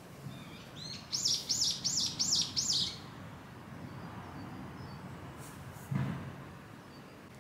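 A small bird sings a phrase of five quick, repeated high notes, each rising and falling, about a second in. A single soft low thump follows near the end.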